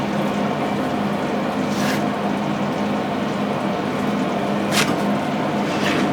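Steady hum with a low, even tone, broken by a few short clicks.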